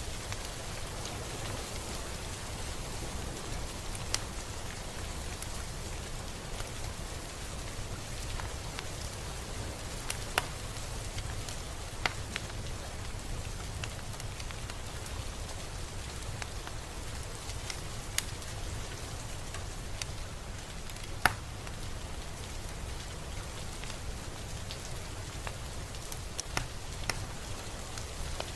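Steady rain falling, an even hiss with a handful of sharper single drop taps standing out now and then, the loudest about three-quarters of the way through.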